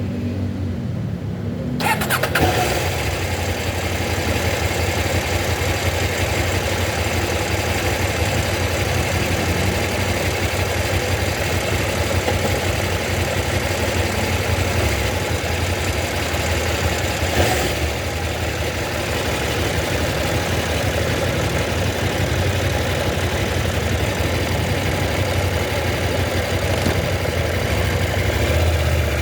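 A motor vehicle's engine running on the road, with steady wind and road noise that comes in suddenly about two seconds in. There is one brief knock or bump in the middle.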